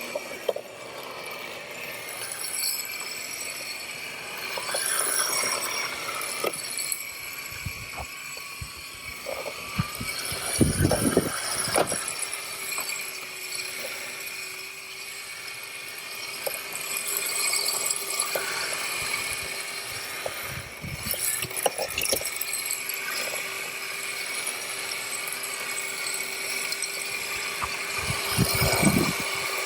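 MJX Hyper Go 14302 RC rally car driving and drifting: its electric motor whines steadily over the hiss of the tyres sliding, with several knocks and clatters.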